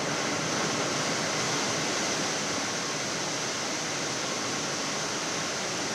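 Steady rushing airflow noise in a Boeing 787 flight deck on final approach, with landing gear and flaps down, and a faint steady hum under it.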